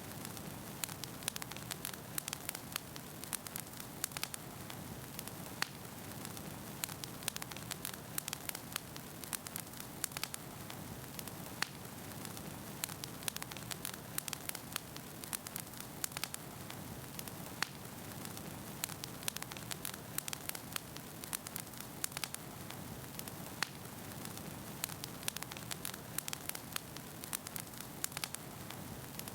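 Wood fire burning in a fireplace: a steady low hiss of flames with frequent irregular sharp crackles and pops from the burning logs.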